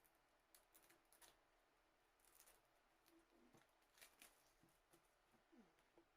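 Near silence with faint, scattered clicks and brief rustles of a small earbud box and its packaging being handled and opened.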